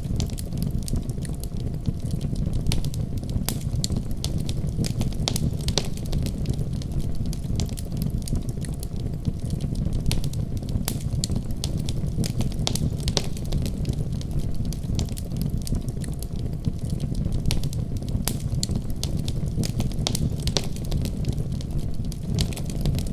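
Wood fire burning steadily: a low, even rumble of flames with many irregular sharp crackles and pops.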